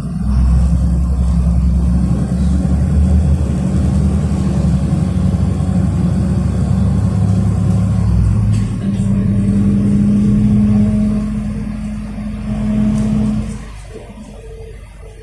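City bus under way, heard from inside, its engine pulling with a steady low drone whose pitch rises a little partway through. The engine eases off and quietens about fourteen seconds in.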